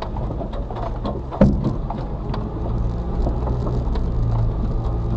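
Suzuki Carry kei truck's 660cc engine running steadily, heard from inside the cab, with frequent small rattles and clicks from the truck bouncing over rough forest track and one sharp thump about one and a half seconds in.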